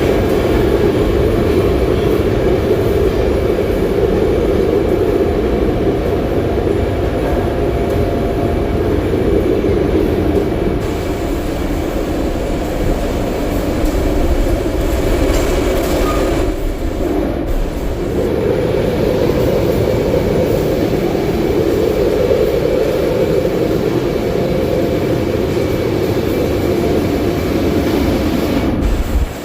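Gas-fired wire patenting furnace running: a loud, steady rushing noise that dips briefly a little past the middle.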